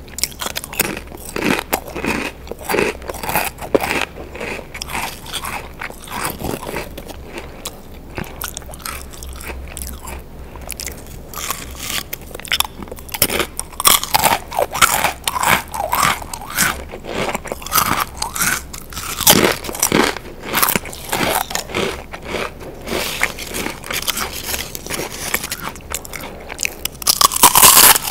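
Close-up chewing and crunching of crisp, thin chips: repeated crackly bites and chewing, with loud bite crunches near the end.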